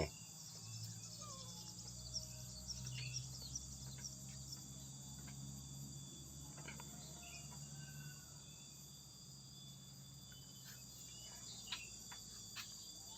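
Faint background of insects chirping, a steady high-pitched trill, over a low hum and a few scattered small clicks.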